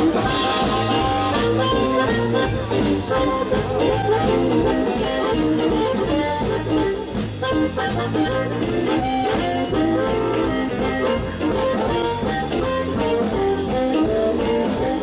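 A live blues band playing the instrumental intro of a song, with guitar and a drum kit keeping a steady beat.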